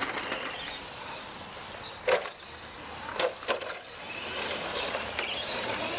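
Radio-controlled monster truck running on a dirt course, its motors whining and rising in pitch as it accelerates. Three sharp knocks come about two and three seconds in, as the truck hits the ground or an obstacle.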